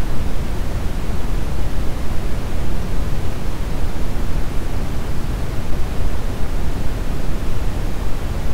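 Brown noise: a steady, even rumbling hiss, deepest in the bass and fading toward the treble, with no changes.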